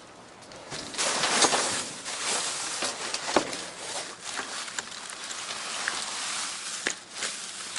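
Rustling, with scattered light knocks and clicks, of boxes and trash being handled and rummaged through in a dumpster.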